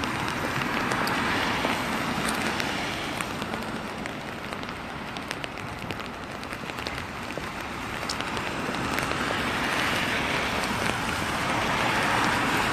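Steady rain falling, an even hiss that swells and fades twice, with scattered drops ticking.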